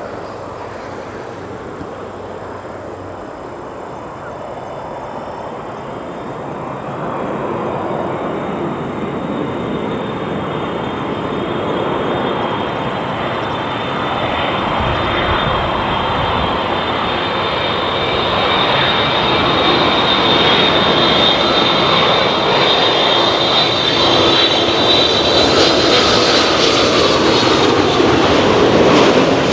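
Jet noise from a Boeing 787-8 Dreamliner's General Electric GEnx-1B turbofans on landing approach. A steady rumble grows louder as the airliner comes nearer, with a high whine building over the last ten seconds.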